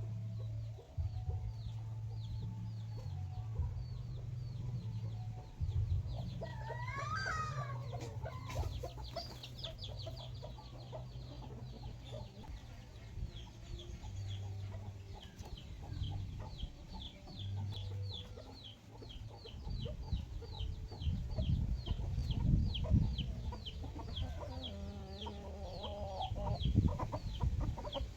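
Free-range chickens clucking, with one longer rising-and-falling call about seven seconds in. A high, even ticking, about three a second, runs through the second half, and low bumps come near the end.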